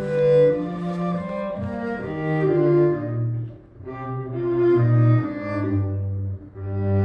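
Instrumental music from a stage musical's pit band: bowed strings, cello foremost with violin above, playing slow held notes that swell and fade. The sound dips briefly twice, about halfway through and near the end.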